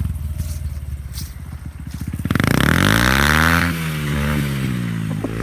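Dirt bike engine idling, then revved once about two seconds in: the pitch climbs for about a second and drops back to idle.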